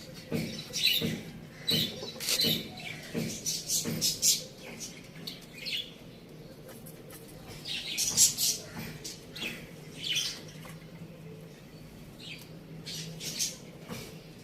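Birds chirping: many short, high chirps in quick irregular runs, thickest in the first few seconds and again around eight seconds in, over a faint low hum.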